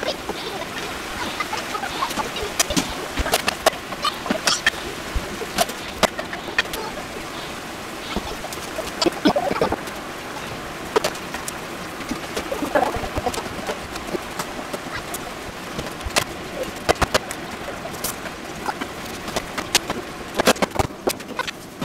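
Mushrooms, bacon and lettuce frying in two pans: a steady sizzle, with the repeated scrape and knock of a wooden spatula stirring against the pans.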